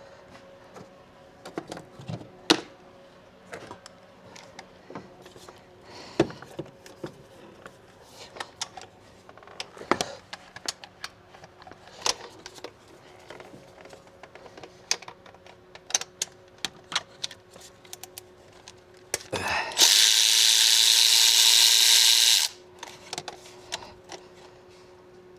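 Scattered metallic clicks and clinks of hand tools and parts. Near the end a power tool runs steadily for about three seconds, backing out a bolt.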